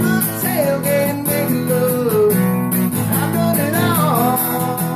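Acoustic guitar strummed in a country song, with a voice singing long, gliding notes over it.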